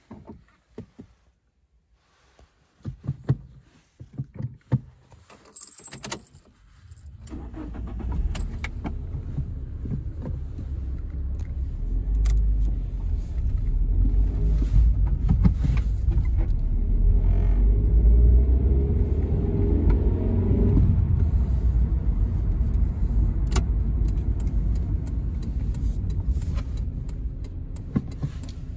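Keys jangling and clicks, then the Toyota Carina E's 1.6-litre 16-valve four-cylinder engine starts about seven seconds in and keeps running, growing louder with some rising and falling tones in the middle.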